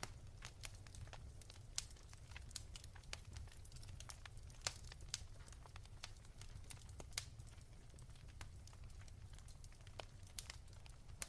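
Wood fire crackling softly: irregular small pops and snaps over a low steady rumble.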